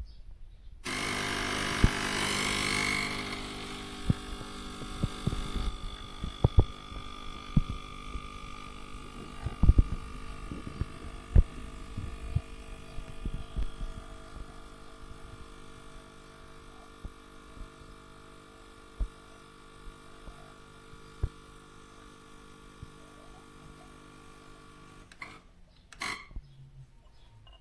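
De'Longhi Dedica EC685M espresso machine's vibration pump switching on about a second in and humming steadily for over twenty seconds, with a hiss over the first few seconds, then stopping near the end. Scattered clicks and knocks throughout.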